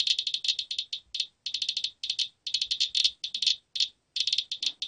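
Geiger counter clicking rapidly and irregularly, in uneven runs with short gaps. The high click rate shows elevated radiation at the used furnace filter, a reading near 1,000.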